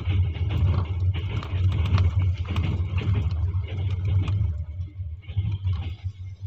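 Double-decker passenger train on the move: a steady low hum with rumbling and irregular rattling clicks, easing off somewhat about five seconds in.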